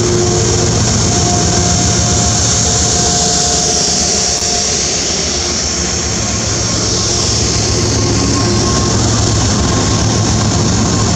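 Metro-North GE Genesis P32AC-DM locomotive running loud and steady as the train pulls out of the station. There is a steady engine hum under a strong high hiss, with a faint whine in the first few seconds.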